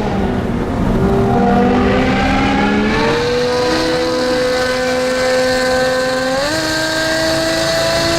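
Car engine running through a loud aftermarket exhaust, its note rising gently about three seconds in and stepping up in pitch near the six-and-a-half-second mark.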